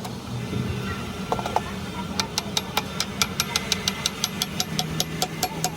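Rapid, evenly spaced sharp metallic clicks or taps, about four or five a second, begin about two seconds in, over a low steady machine hum.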